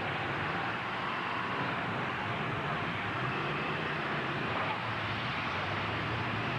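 Demolition derby trucks' engines running, a steady low hum under constant noise with no single crash or impact standing out.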